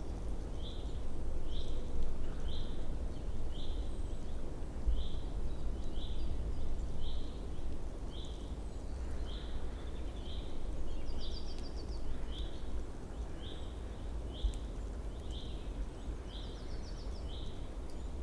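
A small bird calling one short, slightly falling note over and over, about one and a half times a second, with a brief rapid trill twice. A steady low rumble runs underneath.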